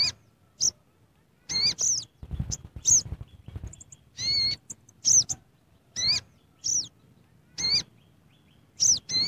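A bird calling over and over in short calls, about one a second, with a stretch of low rustling noise about two seconds in.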